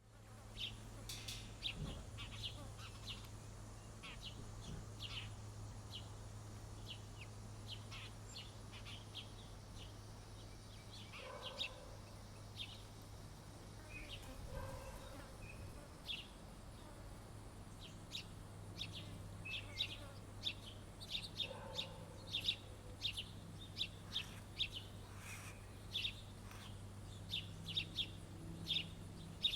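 Small songbirds at a feeder chirping in short, high notes, sparse at first and much busier in the second half, with a few lower calls in between. A steady low hum runs underneath.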